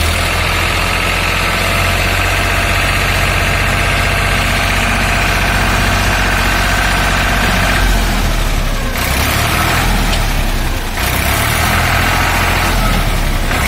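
Farmtrac 60 tractor's diesel engine running steadily while it works a front loader. The sound turns rougher and noisier for a stretch about eight to eleven seconds in, and again briefly near the end.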